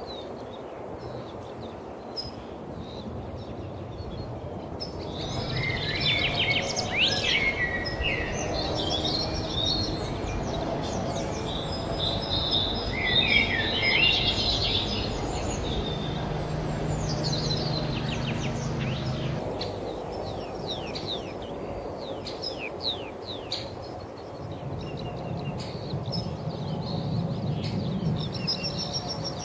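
Wild birds singing, with many short, quick chirps that are busiest in the middle, over a steady low hum.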